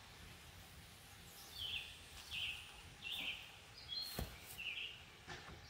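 A bird singing a run of short, repeated chirps, starting about a second and a half in, faint over steady outdoor background noise. A single sharp click comes about four seconds in.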